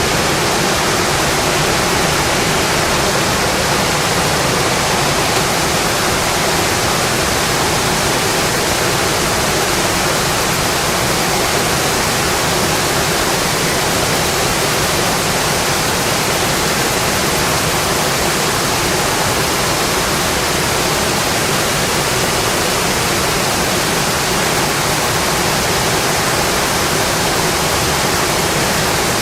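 Steady rainfall on a windowpane: a dense, even hiss that does not change.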